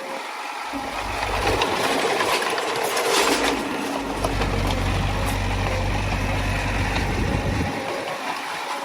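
Komatsu D20A crawler bulldozer's diesel engine working under load, with steel tracks clattering. The engine gets louder about half a second in and eases off near the end, with a short loud clatter around three seconds in.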